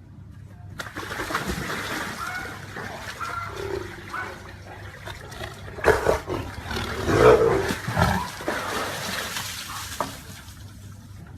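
An animal's calls over a steady rushing noise, loudest around six and seven seconds in.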